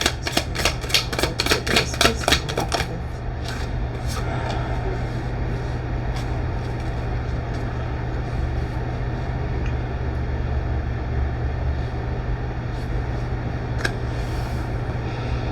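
A quick run of sharp clicks, about seven a second, lasting some three seconds. After that a steady low hum, with an occasional single click.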